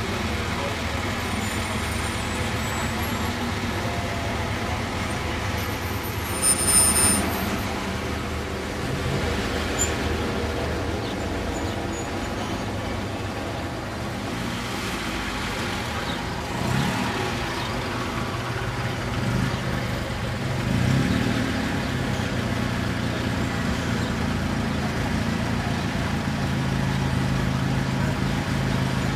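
Classic cars, among them round-tail Alfa Romeo Spiders, driving slowly past with engines running at low revs. The engine sound swells as cars pull by, and there is a brief louder sound about seven seconds in.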